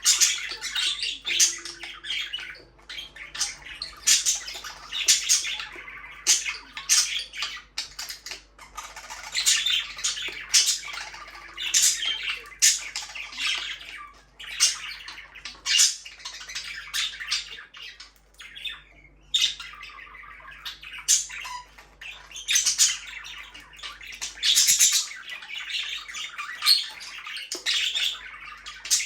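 Budgerigars chirping and chattering continuously, many short, high, overlapping calls that swell and ease every second or two.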